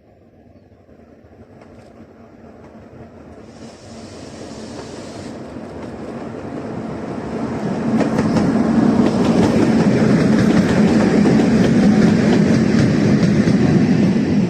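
Train approaching and passing close by: it grows steadily louder for the first eight seconds, then runs loud and steady with a low hum and wheels clicking over the rail joints.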